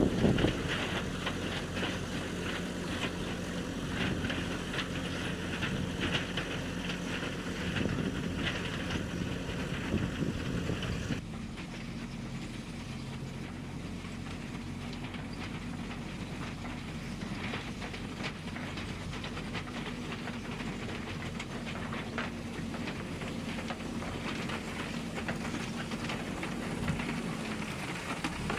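Diesel engine of a JCB 3DX Super backhoe loader running under work, a steady engine tone with mechanical rattling over it. About eleven seconds in the rattling eases and the engine settles to a steadier, quieter run.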